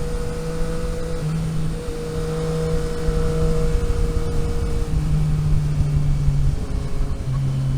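Vehicle engine heard from on board while driving, a steady hum that shifts in pitch a few times, over a heavy low rumble of wind and road noise.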